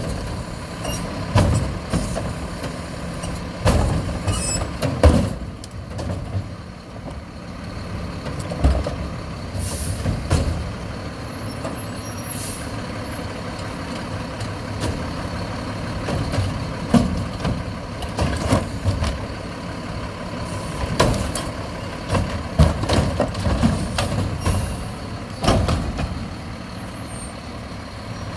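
Mack LEU garbage truck with a McNeilus Meridian front-loader body running steadily, with repeated bangs and clatters of its gear and a short hiss of air about ten seconds in.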